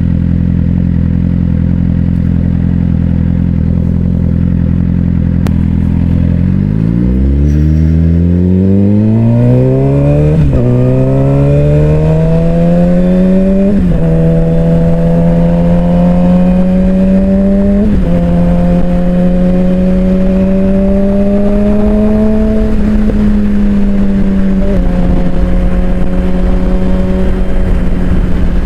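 Suzuki GSX-R600 inline-four sportbike engine idling steadily for about six seconds, then pulling away: the revs climb and drop sharply with four upshifts, settling into a steady cruise with wind noise underneath.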